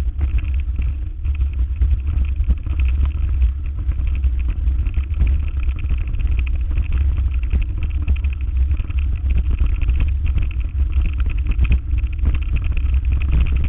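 A vehicle on the move: a steady low rumble with many small knocks and jolts running through it.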